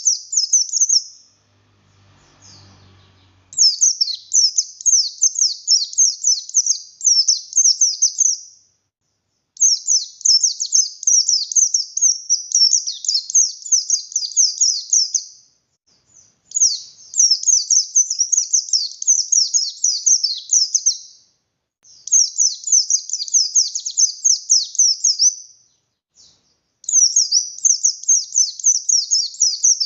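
White-eye (pleci buxtoni) singing in full voice: long runs of rapid, high, sharply falling notes, each run several seconds long, broken by pauses of about a second.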